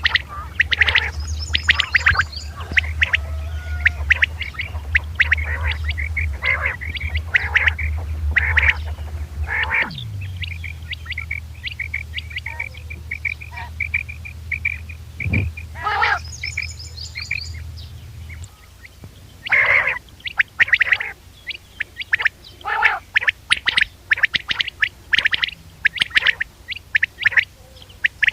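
A recorded hunting-lure tape of quail calling over and over in short, sharp notes, with a fast rattling run of notes near the middle. A low steady hum runs underneath and stops about two-thirds of the way through.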